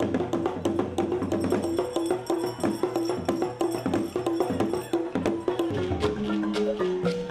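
Music: percussion playing a fast, steady rhythm of short, woody pitched knocks. About six seconds in, a melody on a mallet instrument such as a xylophone or marimba begins.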